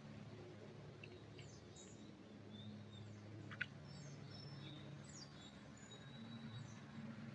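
Faint, scattered chirps and short calls of small forest birds, with one sharper tick about halfway, over a low steady hum.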